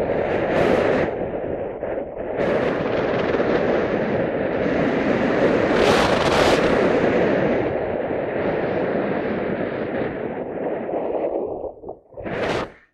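Wind buffeting the microphone, a loud steady roar that surges and eases, dropping away sharply near the end.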